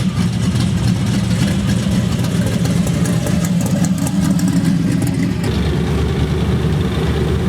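Car engine running at low speed with a loud, deep exhaust note; the sound shifts about five and a half seconds in.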